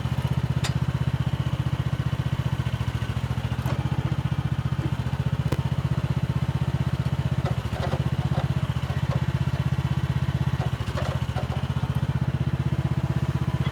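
Mini excavator's diesel engine running steadily, with a few short clanks of the machine working about halfway through and again later.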